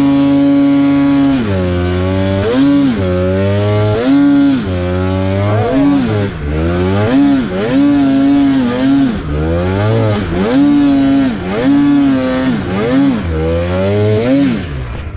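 Polaris snowmobile engine holding a steady note, then from about a second and a half in surging and sagging over and over, roughly once a second, each rise in revs falling back as it bogs: a fault the owner puts down to bad fuel injectors or injector harness.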